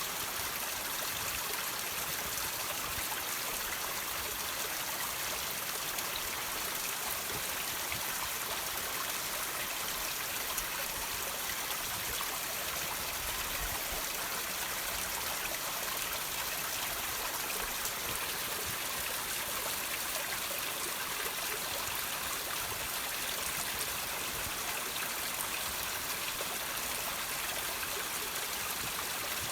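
Water dripping and trickling from rocks: a steady hiss of running water with many fine drips through it.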